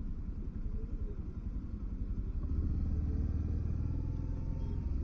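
Motorcycle engine running at low speed, a steady low rumble that grows louder about halfway through.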